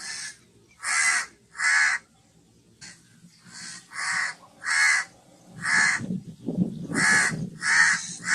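Crow cawing: a series of short, harsh caws, one or two a second, with a short pause about two seconds in.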